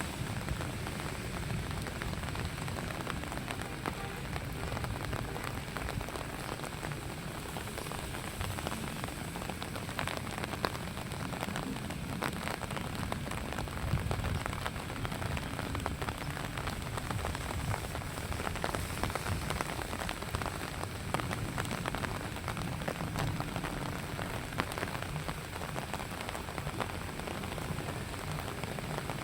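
Light rain falling steadily, a dense patter with many small drop ticks, over a steady low rumble.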